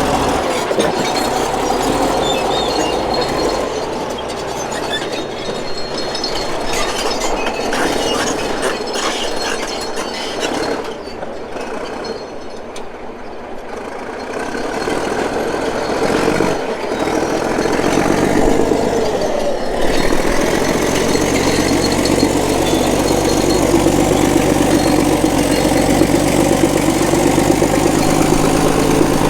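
Heavy diesel machinery running, with metallic squealing; the engine grows louder and fuller from about 20 seconds in.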